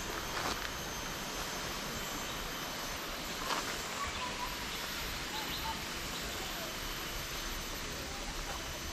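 Outdoor ambience: a steady hiss of background noise with a few faint short chirps and a couple of soft knocks.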